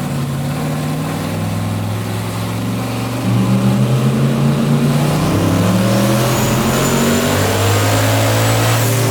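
Twin-turbo Chevrolet S10's engine running under load on a chassis dyno. It gets louder about three seconds in, then the revs climb slowly through a pull, with a high whine rising alongside in the second half, and it lets off at the very end.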